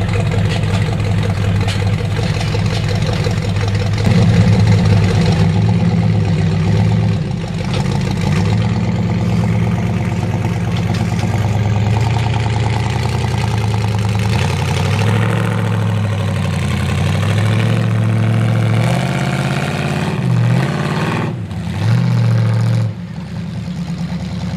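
Mud truck engine running under load with repeated revs, getting louder about four seconds in and rising and falling in pitch, with a brief dip and surge near the end.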